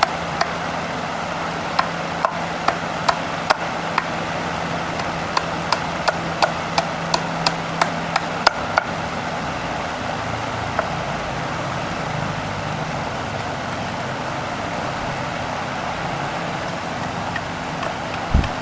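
A steady mechanical hum with a run of sharp knocks, about two a second, through the first half, then only the hum, with one louder knock at the very end.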